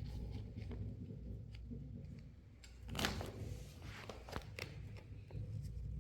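Faint handling noises over a low steady hum: scattered small clicks and rustles, with one louder rustle about halfway through.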